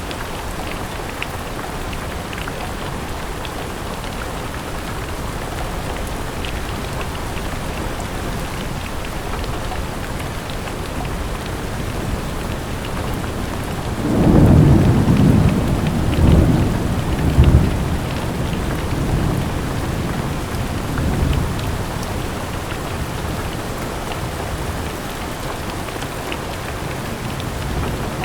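Steady rain falling on a window, with a roll of thunder about halfway through that swells three times over a few seconds and fades away.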